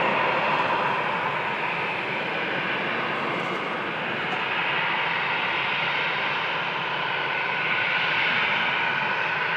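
Airbus A319 jet engines running steadily, a continuous rushing hum with a whine, swelling slightly in the second half.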